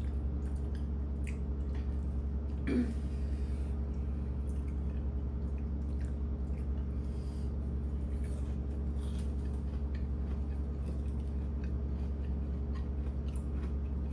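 Quiet eating sounds, with soft chewing and small scattered clicks over a steady low electrical hum; one short knock about three seconds in.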